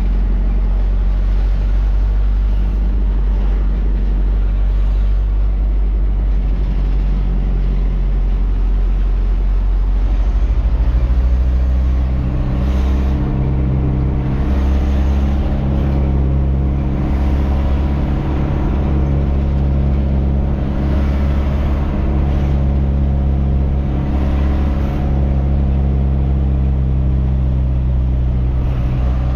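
Truck engine running steadily on the road, its note shifting about ten seconds in.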